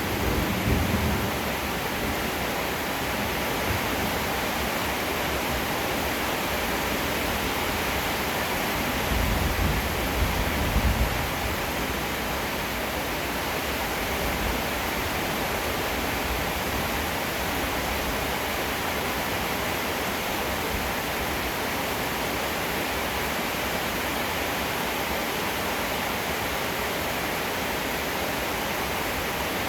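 Heavy rain falling in a steady, dense hiss, with low rolls of thunder rumbling at the start and again about nine to eleven seconds in.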